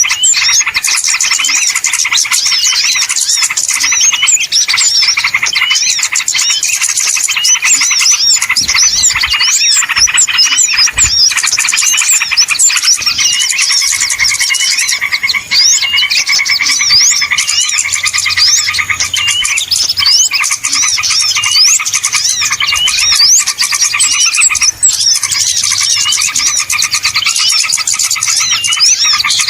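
A noisy flock of many small songbirds chirping and twittering over one another without a break: a small-bird lure recording ("pikat burung kecil") of the kind played to draw small birds in.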